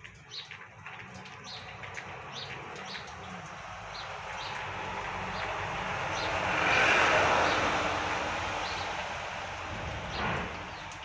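A vehicle passing on a busy street, its noise swelling to a peak about seven seconds in and then fading. Short high bird chirps repeat throughout.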